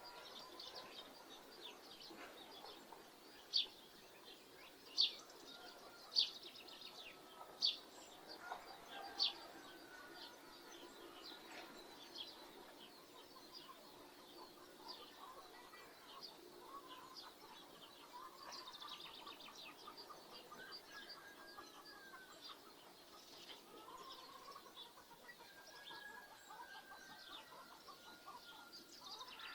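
Farmyard birds in the early morning: many small birds chirp throughout, and one sharp high chirp sounds loudly five times, about every second and a half, in the first third. Chickens cluck faintly beneath.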